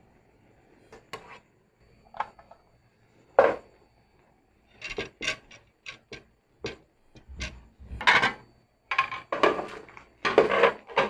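Eating utensils clicking and scraping against a dish: a string of short, sharp sounds that come closer together and last longer toward the end.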